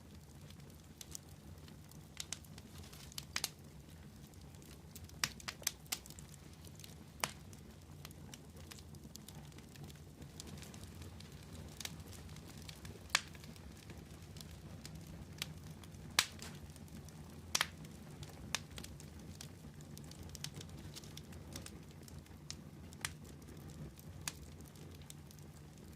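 Wood fire burning with a steady low hiss and rumble, broken by sharp irregular crackles and pops, a few louder snaps scattered through.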